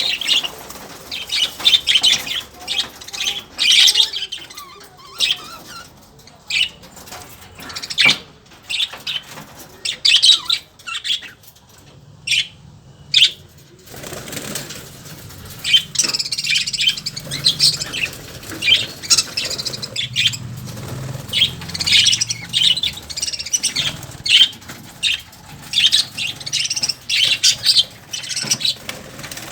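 Lovebirds chattering: many short, shrill chirps and squawks in quick clusters, with a brief lull in the middle.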